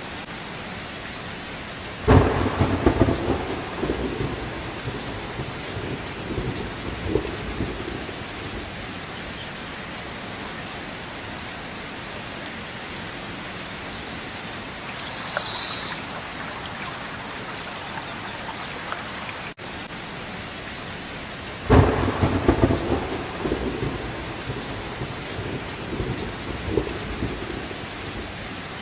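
Steady rain falling, with two sudden claps of thunder about twenty seconds apart, each rumbling away over several seconds.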